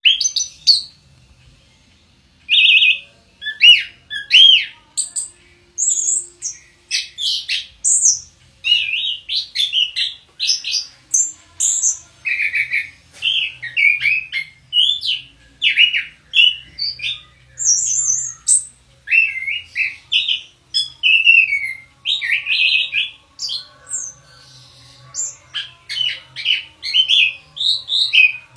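Orange-headed thrush singing: a long, loud run of short, varied whistled and warbling phrases, one after another with hardly a pause, after a brief gap about a second in.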